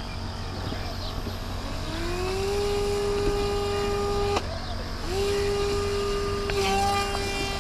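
Small electric drone propeller motor spinning up with a rising whine, then holding a steady pitch. It cuts off abruptly with a click about four seconds in, then spins up again and runs steadily.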